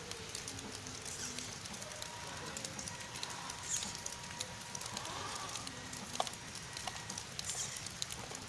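Rain pattering, with many scattered, irregular drip clicks over a steady hiss. A faint steady tone runs through the middle.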